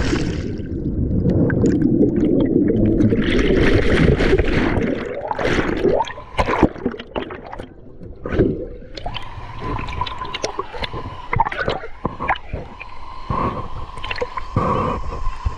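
Water heard from underwater just after a dive into a waterfall pool. A muffled rush of churning water and bubbles lasts about five seconds, then gives way to softer gurgling and scattered knocks, with a thin steady tone from about nine seconds in.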